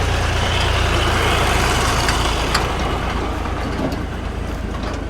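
Tractor engine running steadily with a low rumble under a noisy rush, as the tractor pulls harrows over the field.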